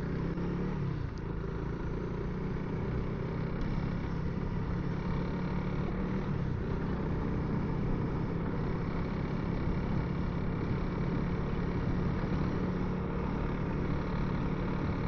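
Honda CRF300L single-cylinder dual-sport motorcycle engine running at a steady pace while riding, with wind and road noise, heard through a helmet intercom's Bluetooth microphone, so the sound is muffled and cut off in the highs.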